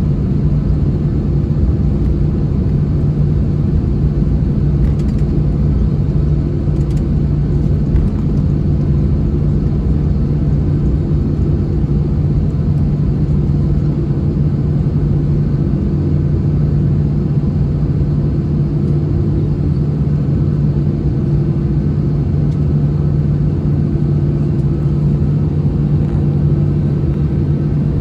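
Steady cabin drone inside an Airbus A321-200 on the ground with its engines at idle, carrying a constant low hum.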